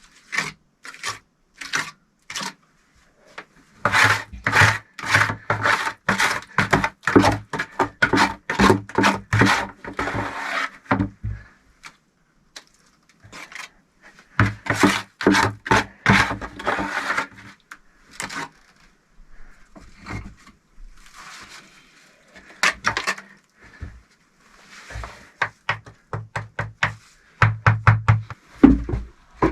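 Bricklaying with clay mortar: quick runs of short knocks and taps, several a second, as bricks are set and tapped down, with scraping between. The runs last a few seconds with pauses, and there is a heavier cluster of knocks near the end.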